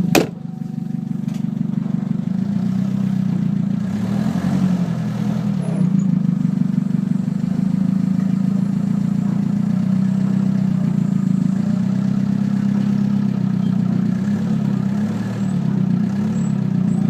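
Chevrolet Silverado 1500 pickup running steadily on the road, a continuous low engine drone with road noise. There is a sharp click right at the start.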